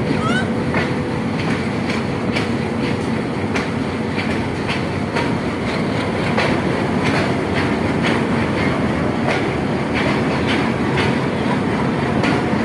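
Passenger train coach rolling along the track, heard from aboard: a steady running rumble with the clickety-clack of wheels over rail joints, about two clicks a second. A short rising squeak comes about half a second in.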